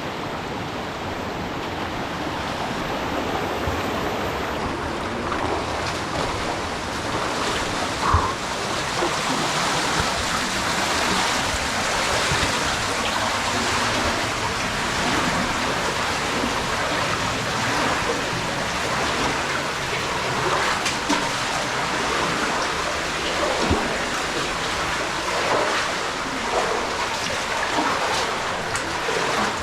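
Spring water running through a cave passage, a steady rushing swollen by recent rain, with a couple of brief knocks or splashes.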